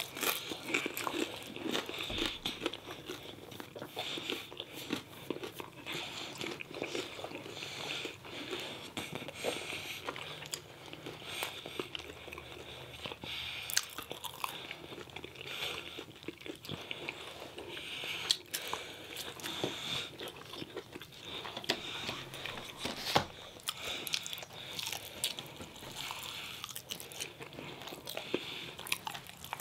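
Eating sounds: a person biting, crunching and chewing food, with many short sharp clicks scattered throughout.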